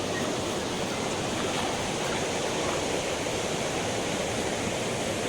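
Waterfall, its falling water making a steady, even rush.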